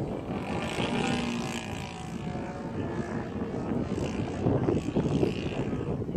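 Seagull Edge 540 radio-controlled model airplane's engine and propeller running.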